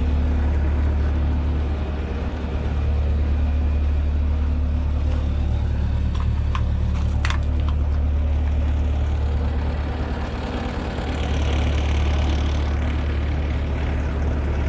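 Heavy diesel equipment engine running steadily at low idle, with a couple of light clicks around the middle.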